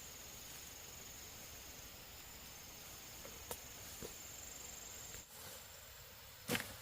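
Insects chirring, a faint steady high whine that stops about five seconds in, with a couple of light clicks and a sharp knock near the end.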